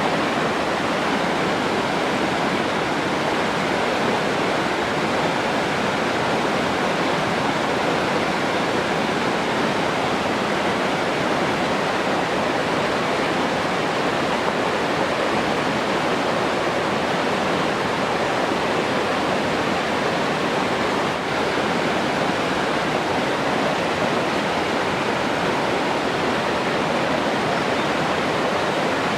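Rushing water running as a steady, unbroken hiss with no separate splashes.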